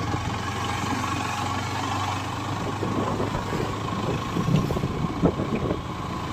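Motorcycle engine running steadily, with a few short knocks about four to five seconds in.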